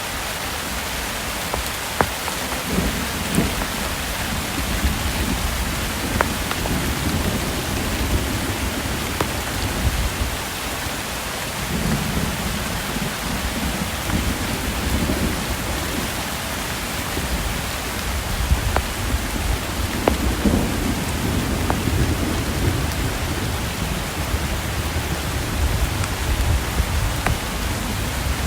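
Thunderstorm: steady rain hissing, with thunder rumbling low in the distance several times, and a few sharp taps of drops landing close by.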